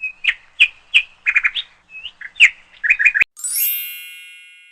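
Bird chirping in a quick series of short calls, then about three seconds in a bright shimmering chime that rings out and fades away.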